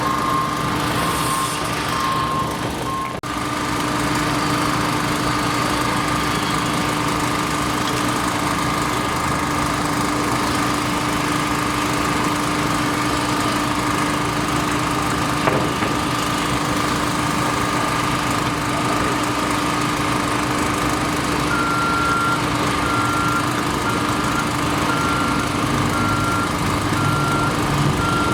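Construction machinery engines running steadily. A reversing alarm beeps through the first three seconds, and a higher one beeps at an even pace through the last several seconds.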